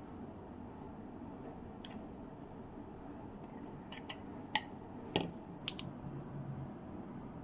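A few sharp clicks and taps of small hard parts being handled, the three loudest close together in the second half, over a faint steady hiss.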